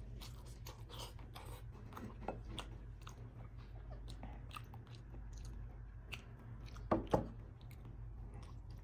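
A person chewing a mouthful of rice and salmon paksiw, eaten by hand, close to the microphone, with many small mouth clicks. Two sharper clicks come about seven seconds in.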